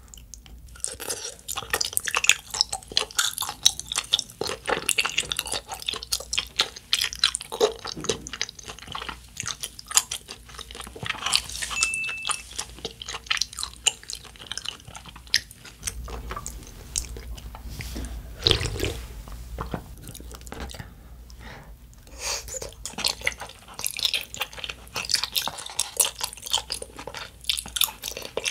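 Close-miked wet chewing of chewy tteokbokki rice cakes in thick spicy sauce: sticky lip-smacking and clicking mouth sounds, with a short pause about three-quarters of the way through.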